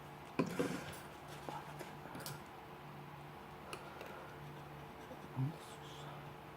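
Clicks and light knocks of a steel multitool's parts being handled during disassembly, loudest about half a second in, with a few more single clicks later, over a steady low hum.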